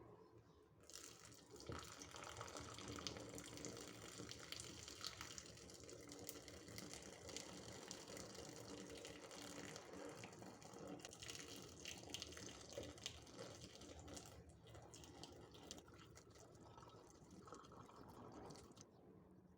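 Kitchen tap running into a sink, turned on about a second in and off shortly before the end, with small clicks and knocks through the running water.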